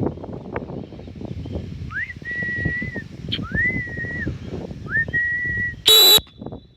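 A person whistling three times, each note sliding quickly up and then held steady for most of a second, followed near the end by one very loud, short, harsh burst. Low rustling noise runs underneath.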